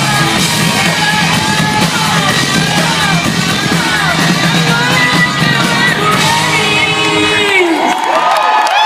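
Loud rock music at the end of a live performance, with a crowd whooping and yelling over it; the band's sound drops out about eight seconds in, leaving the crowd's cries.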